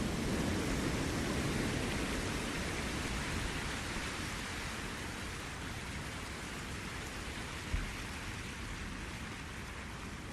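Ocean surf on the shore: the hissing wash of a wave, strongest at first and slowly dying away as it recedes. A brief low thump on the microphone about three quarters of the way through.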